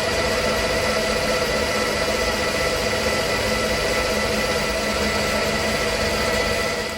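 Milling machine spindle and motor running steadily with a high whine while drilling holes. It is switched off at the very end and begins to wind down.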